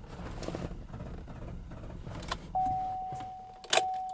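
A low rumble with light clicks and rattles for the first couple of seconds. Then a steady single-pitch electronic tone starts about two and a half seconds in and holds, and a sharp click comes just before the end.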